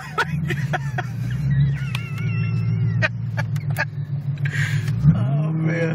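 426 Hemi V8 engine of a Dodge Challenger driving, heard from inside the car: a steady engine drone with knocks and rattles. The note drops sharply and climbs back about five seconds in.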